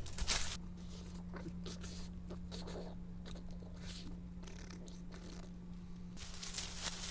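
A person biting and chewing something crunchy: a short bite at the start, then faint, irregular chewing.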